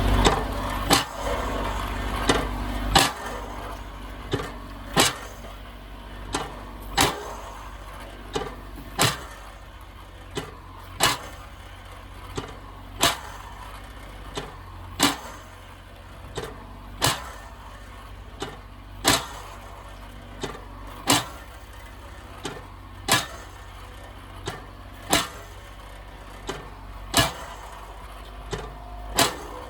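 An engine running low and steady, louder for the first few seconds, with sharp clicks about once a second, every other click louder.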